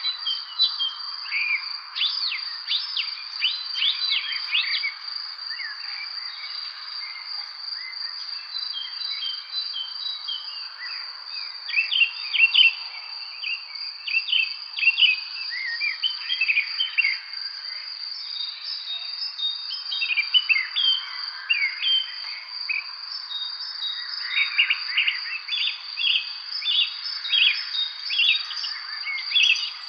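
Songbirds chirping and singing in many short, overlapping calls over a steady, high-pitched insect trill, as in an evening spring chorus.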